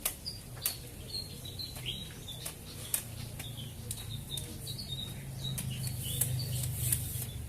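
Small birds chirping, with many short high chirps repeating. Scattered sharp clicks and a low hum run underneath, and the hum grows louder in the second half.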